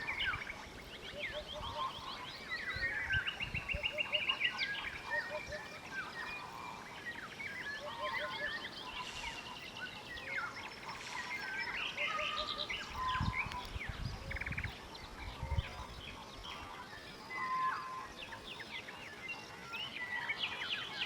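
Eurasian hoopoe calling, its short low hooting notes repeated in small groups every few seconds, over a busy chorus of other songbirds chirping and trilling. A few low bumps come in the second half.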